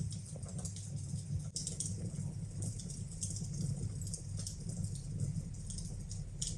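Wood fire burning in a fireplace: irregular crackles and small pops over a low, steady rumble.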